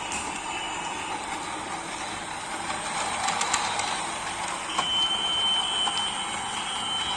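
Battery-powered toy trains running on a plastic track: a steady whirring rattle of small motors and wheels, with a few light clicks. A thin high whine joins about two-thirds of the way in.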